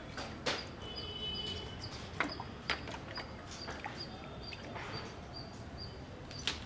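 A small bird chirping over and over, short high notes about twice a second. Now and then there is a sharp knock or splash as lengths of wet cane are moved about in a water tank for soaking.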